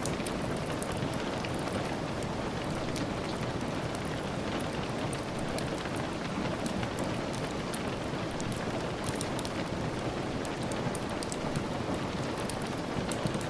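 Steady rain falling, with many scattered sharp ticks and crackles over it, as from a wood fire crackling in a fireplace.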